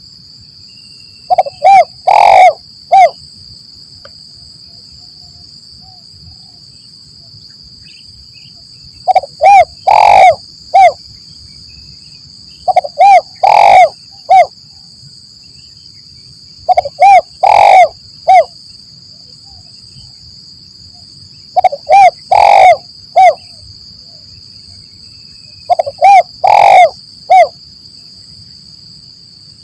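Spotted dove (tekukur) cooing: six phrases of four coos each, the third coo longest and loudest, repeated every four to five seconds. A steady high-pitched whine runs underneath.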